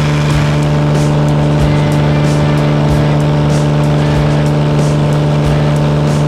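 Cessna 206 floatplane's piston engine and propeller running steadily, a constant drone with an unchanging pitch.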